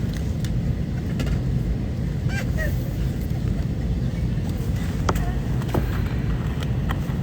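Steady low rumble of an airliner's cabin noise, with a few faint sharp clicks and a brief distant voice.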